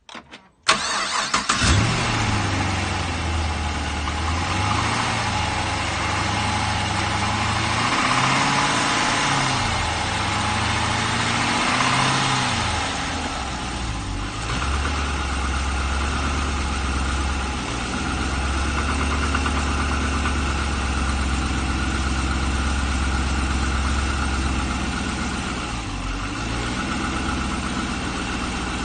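Chevrolet LS3 6.2-litre V8 cranking briefly and starting, then idling. The idle speed wavers up and down at first and settles lower about halfway through. The owner takes the noise for piston slap.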